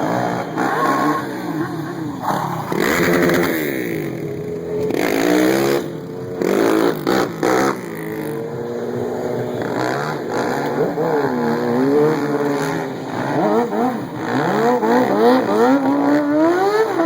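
Stunt vehicle engines revving hard, their pitch rising and falling again and again, with more than one engine running at once. Between about six and eight seconds in come a few short, sharp blips of throttle.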